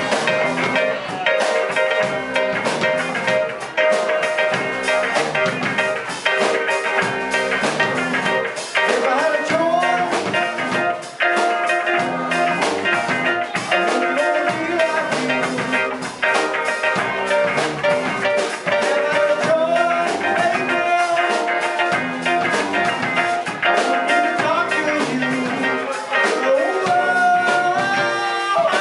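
Live rock band playing a steady groove on electric guitar, bass and drums, with a lead line that slides up and down in pitch.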